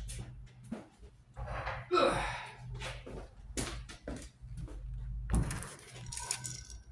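Scattered knocks and clunks of metal parts and tools being picked up and set down on a workbench, the loudest about two seconds in.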